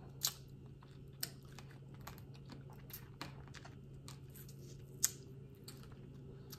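Quiet mukbang eating sounds: soft chewing with scattered small clicks and crackles, a sharper click about five seconds in, over a faint steady low hum.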